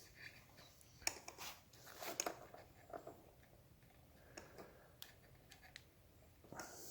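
Faint scattered clicks and light metallic taps, a cluster in the first three seconds and a few fainter ones later: battery cable ends and terminal hardware being handled as the leads are fitted to a motorcycle battery.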